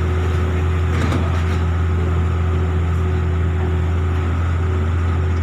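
Engine running steadily with a deep, even drone and no change in pitch.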